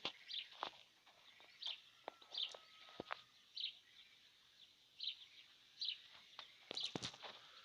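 A kite (bird of prey) gives short, high chirping calls over and over, about one a second. A few sharp knocks sound among them, a cluster of them near the end.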